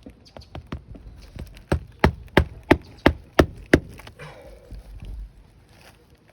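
Hammer driving roofing nails into asphalt shingles: a few light setting taps, then six hard evenly spaced blows about three a second, followed by a short rustle.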